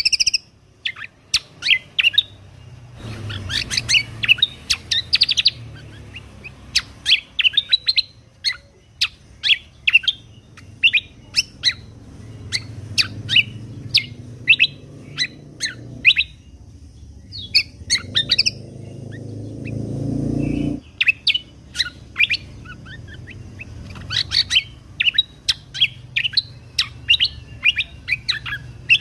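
Kecial kombok (cucak kombo) songbird singing rapid runs of short, sharp chirps in bursts separated by brief pauses. A low rumble sits underneath for long stretches and swells about twenty seconds in.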